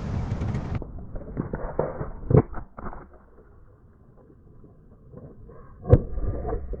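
Objects crunching and cracking under a car tyre: scattered crackles and cracks in the first few seconds, then one sharp loud crack about six seconds in.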